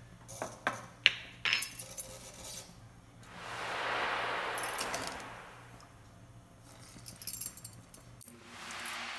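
Saba banana pieces going into hot oil and caramelizing brown sugar in a frying pan, frying with a sizzle that swells and fades over about two and a half seconds, and starts again near the end as another piece goes in. Sharp metal clinks against the pan come before the first sizzle and again shortly before the second, the later ones from a metal fork.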